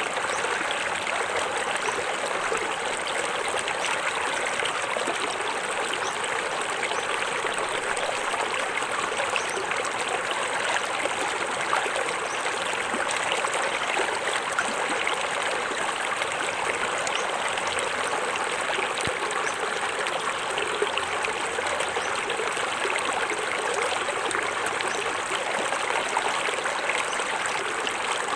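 Small forest waterfall: water falling and splashing into a stream in a steady, unbroken rush with fine trickling and splashing detail.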